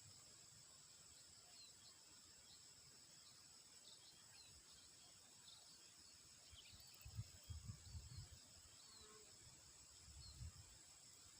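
Faint rural field ambience: insects droning steadily at a high pitch, with scattered short high chirps. From about seven seconds in, irregular low rumbling comes and goes.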